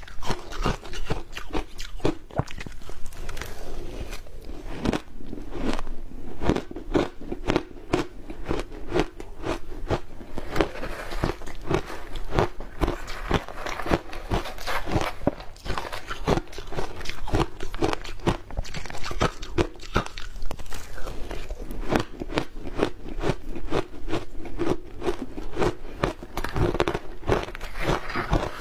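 Ice dusted with matcha powder being bitten and chewed: a continuous run of sharp, irregular crunches and cracks, several a second.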